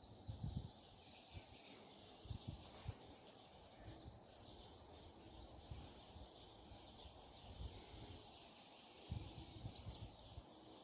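Faint ambience: a steady high hiss with a few soft, low thumps near the start, a couple of seconds in, and again near the end.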